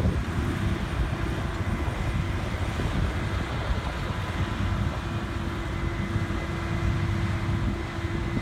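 Harvest machinery engine running steadily: a low rumble with a faint held whine.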